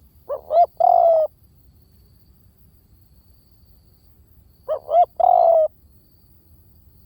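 Spotted dove cooing: two phrases about four seconds apart, each made of two short coos followed by one longer, slightly falling coo.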